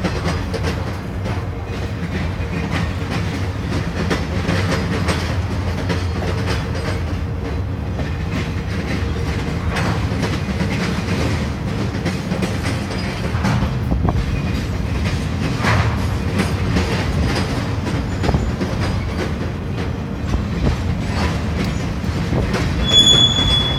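Freight train of flatcars rolling steadily past: a continuous low rumble with the clickety-clack of wheels over rail joints. Near the end, a thin, high wheel squeal rises above it.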